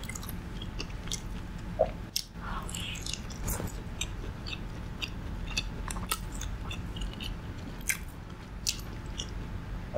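A person chewing and biting food close to the microphone, with many small sharp mouth clicks, over a steady low hum.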